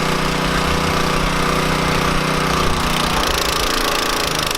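Small single-cylinder engine of a gas-powered pressure washer running steadily, with its note shifting about three seconds in.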